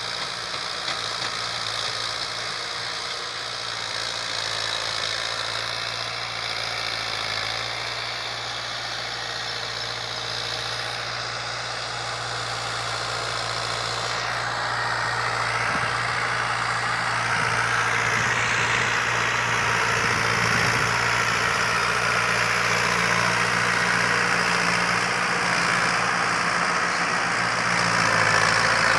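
Fiat 640 tractor's diesel engine running steadily, growing louder and brighter from about halfway through as it works harder or comes closer.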